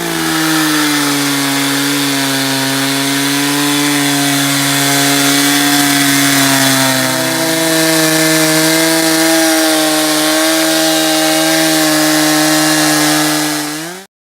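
Two-stroke chainsaw running at high revs and cutting into wood. Its pitch sags slowly, then rises about halfway through, and the sound cuts off abruptly near the end.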